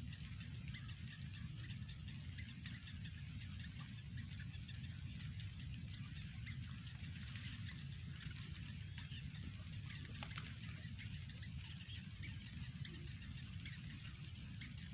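Faint short bird chirps scattered throughout, over a steady low rumble and a constant high-pitched whine.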